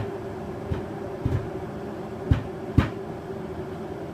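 Aicok electric kettle heating water: a steady hum with about five irregular knocks and ticks in the first three seconds, the loudest close together near the three-second mark.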